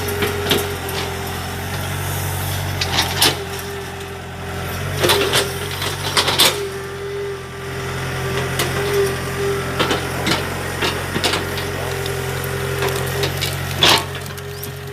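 Excavator engine running steadily with a steady whine, while bamboo cracks and snaps in sharp breaks: a few around three seconds in, a cluster about five to six and a half seconds in, and one loud snap near the end.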